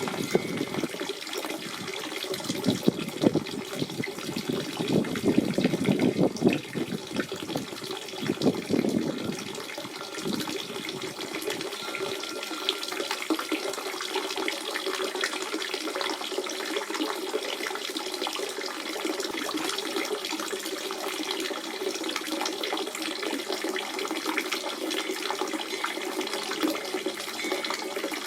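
Natural spring water running and splashing steadily. It is louder and more uneven for about the first ten seconds, then settles into a steadier, lighter flow.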